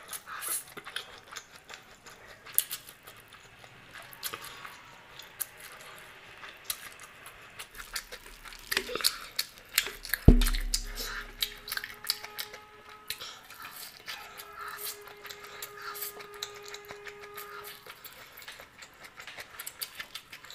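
Close-miked eating: a person chewing a mouthful of vegetable chow mein noodles, with many small wet clicks and smacks. About ten seconds in there is one sharp knock with a low thump, followed by a faint ringing tone.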